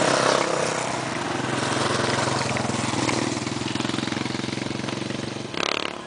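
Model airplane's small .049 two-stroke glow engine running in flight, a buzzing note whose pitch wavers as the plane manoeuvres, loudest at the start and slowly fading as it flies off. A short burst of noise comes near the end.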